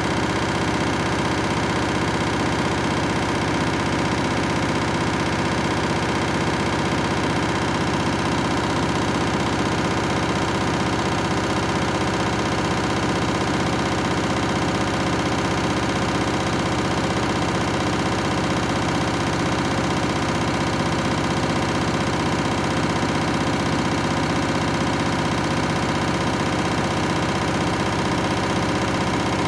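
Candy washing machine on its 1600 rpm final spin: the drum and motor running at high speed with a steady, unchanging whine.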